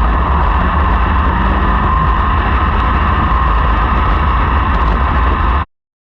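Sprint car engines running in a race on a dirt track: a loud, steady, dense drone that cuts off suddenly about five and a half seconds in.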